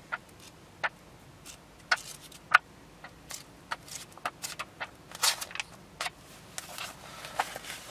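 Pages of a paper owner's manual being leafed through by hand: a string of irregular, sharp page flicks and rustles, about one or two a second.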